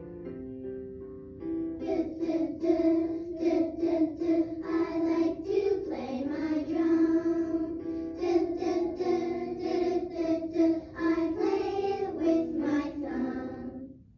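Children's song: a few plucked or keyboard notes, then a child's voice singing over the accompaniment from about two seconds in until it stops near the end.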